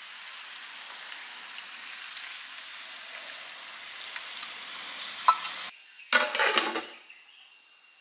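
Chicken sizzling and frying in a metal pot as a metal ladle stirs it with a few light clicks, and a little hot water is poured in. A short loud clatter comes about six seconds in.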